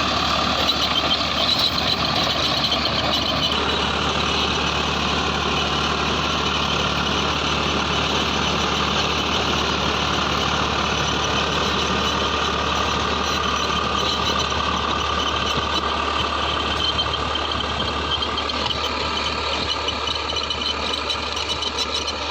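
Farmtrac 60 PowerMaxx T20 tractor's diesel engine running steadily, a little quieter near the end.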